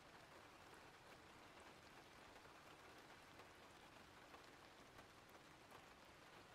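Faint steady rain: a soft even hiss with scattered light drop ticks.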